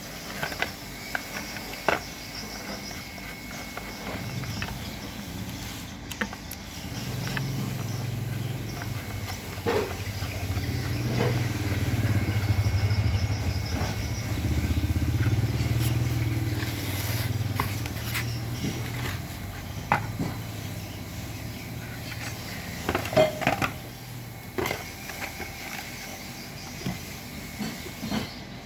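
A small engine's low hum swells from about four seconds in and fades out again by about twenty-four seconds, over scattered metallic clicks and knocks.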